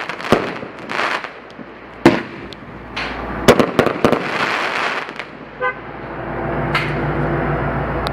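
Fireworks going off: a string of sharp bangs with crackling, heaviest in the first four seconds, then thinning to a single late bang. A steady low hum with even tones sets in about halfway through and carries on to the end.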